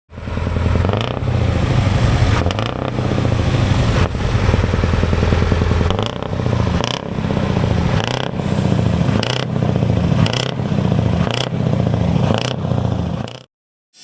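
Scania V8 truck engine through a Greek-style exhaust, revved hard. It is held up for several seconds, then blipped about once a second, with a sharp snap from the exhaust on each blip, and it cuts off suddenly near the end.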